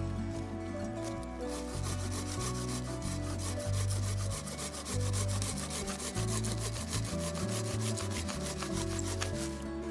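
Hand saw cutting through wood, a fast rasping stroke after stroke, over background music.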